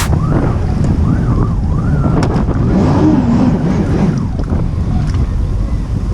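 Jet ski running over the water, its engine rumble mixed with water spray, with heavy wind on the microphone.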